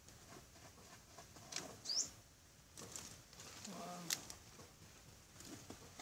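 Faint ambience: a small bird gives one short, high, rising chirp about two seconds in. Scattered light taps and rustles run under it, and a brief faint voice sounds near the middle.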